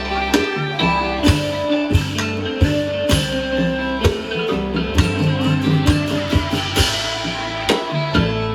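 Isan pong lang folk band playing an instrumental piece, with plucked string melody lines over a steady drum beat of about one and a half strokes a second.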